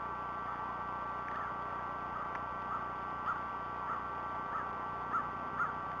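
A bird calling a run of short, repeated chirps, roughly two a second, that get louder near the end, over a steady whine and a soft hiss.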